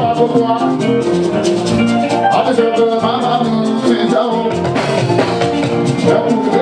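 Live Fuji music band playing: dense percussion with held melodic notes and a singer's voice.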